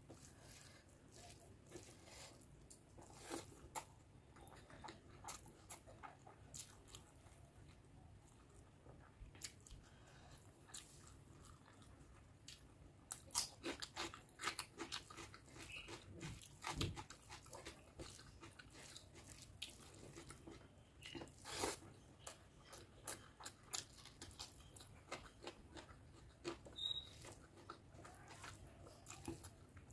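A person eating rice and mutton curry by hand: irregular wet chewing and lip-smacking clicks, with fingers mixing the rice into the curry on the plate. The clicks come thicker and louder around the middle.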